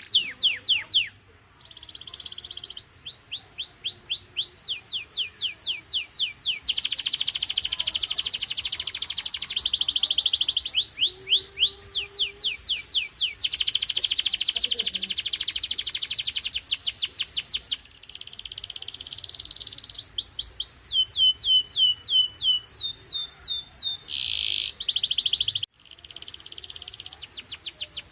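Canary singing: phrases of high, repeated downward-sweeping notes, some delivered slowly and others run together into fast rolls.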